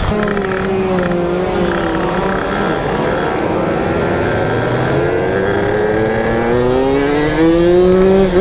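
Yamaha Force 1 (F1ZR) 110 cc two-stroke underbone engine running under way. Its pitch eases off over the first couple of seconds, then rises steadily as it accelerates from about five seconds in, and drops sharply at the very end.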